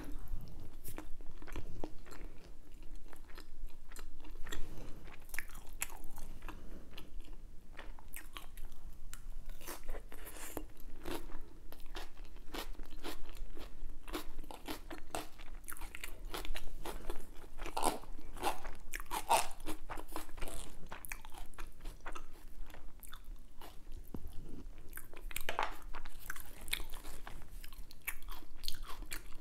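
A person chewing crunchy food close to the microphone, with many sharp, crisp crunches and bites.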